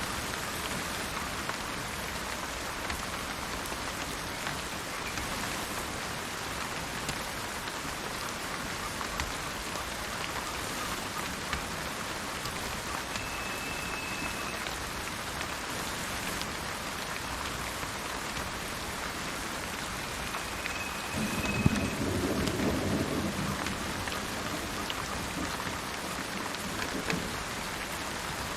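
Steady rain falling, with a low rumble of thunder a little past the two-thirds mark that lasts a few seconds. Two brief high bird calls sound earlier on.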